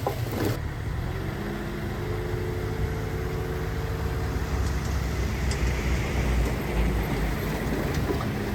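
Heavy diesel earthmoving machinery running steadily: a low engine rumble with a faint whine over it, and a few light clicks near the end.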